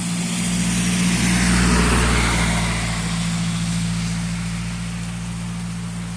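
A vehicle passing on a rain-soaked road: its tyre hiss and engine noise swell to a peak about two seconds in and then fade, over the steady hiss of heavy rain.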